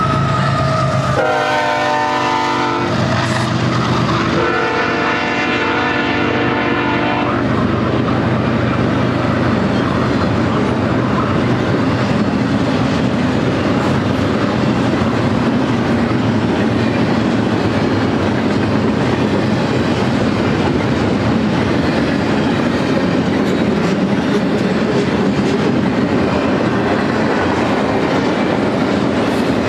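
A BNSF GE diesel locomotive's air horn sounds long blasts for the grade crossing during the first seven seconds. It is followed by the steady rumble and wheel clatter of a double-stack intermodal train's loaded well cars rolling past.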